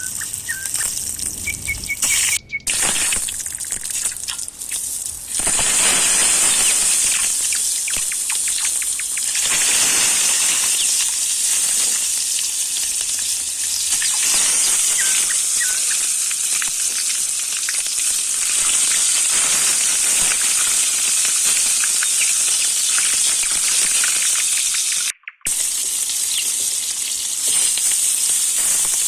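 Food sizzling in a saj pan over a wood fire: a steady frying hiss that breaks off briefly twice. Birds chirp faintly.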